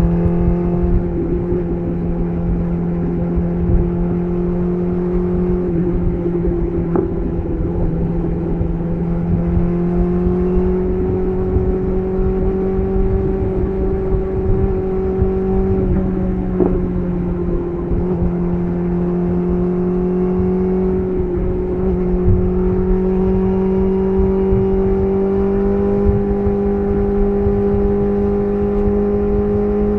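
BMW S1000RR inline-four with an SC Project CR-T titanium exhaust, recorded close to the exhaust, running at a steady cruise, its pitch creeping slowly upward.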